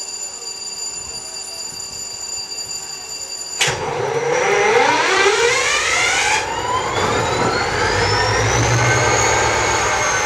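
GT22 diesel-electric locomotive, with an EMD 645 twelve-cylinder diesel, starting up. A steady whine, then about three and a half seconds in the engine fires suddenly and runs up, its pitch climbing over several seconds before levelling off near the end.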